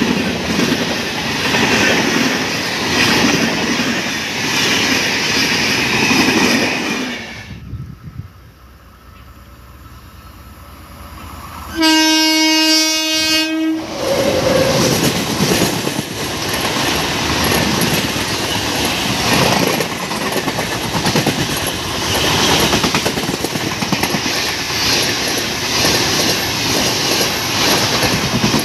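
Passenger coaches running past at high speed, a loud steady rush of wheel and rail noise that dies away about seven seconds in. About twelve seconds in, an Indian Railways electric locomotive sounds its horn once for about two seconds, then the locomotive and its coaches run past at speed with the same loud rush of wheel and rail noise.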